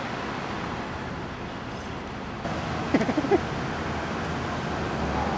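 Steady rumble and hiss of vehicle road noise, with a quick cluster of short squeaky chirps about three seconds in.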